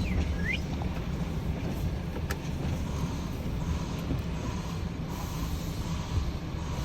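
Diesel engine of an HGV tractor unit running steadily at low speed as the truck is manoeuvred into a parking spot, a continuous low rumble. A short high squeak comes right at the start.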